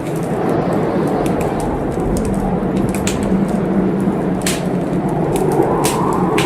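Wood fire crackling in a fireplace: irregular sharp pops, several in a few seconds, over a steady rushing noise.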